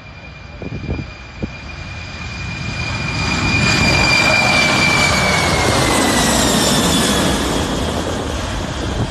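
Jet airplane passing by: a rushing engine roar builds to its loudest about halfway through, and its high whine slides down in pitch as the plane goes past.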